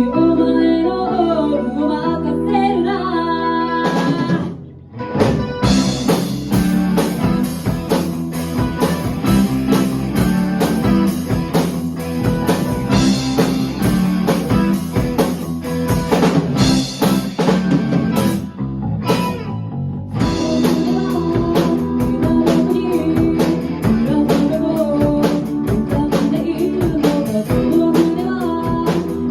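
A high-school rock band playing with electric guitar, bass and drum kit, and singing. After a held opening, the sound drops briefly about four seconds in, then the full band comes in with drums. There is a short break about two-thirds of the way through.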